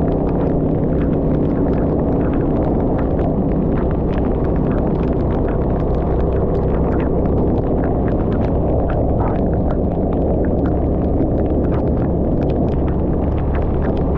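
Steady rumble of a scooter riding through heavy rain, with many scattered sharp ticks of raindrops.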